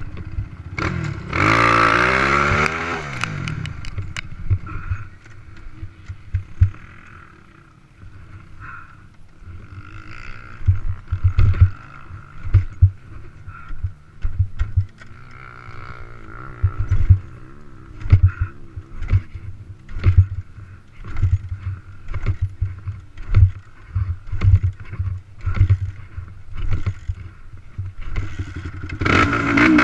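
A racing quad's single-cylinder engine, heard from on board: a loud rev falling in pitch about two seconds in, quieter running through the middle with many sharp low thumps, and a loud rev again near the end.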